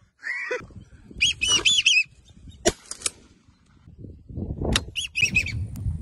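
Birds calling: a falling call near the start, then quick runs of short, arched, whistled notes about a second in and again near the end. A few sharp clicks come in the middle, and low rumbling wind or handling noise builds toward the end.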